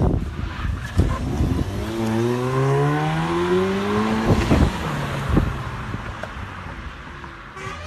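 Car engine accelerating, its pitch rising steadily for about two seconds, with several sharp knocks around it.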